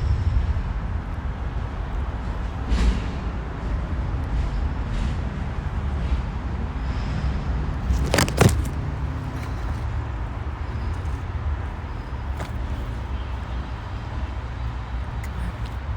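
A steady low rumble with a few sharp clicks, the loudest a short cluster about eight seconds in.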